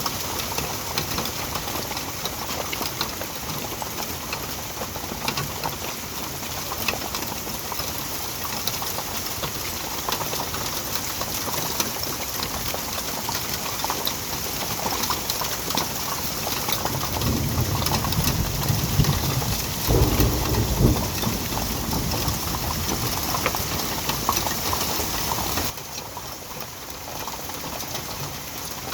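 Hail and heavy rain pelting down, a dense, continuous patter of small hits. A low rumble swells about two-thirds of the way through, and the patter turns quieter near the end.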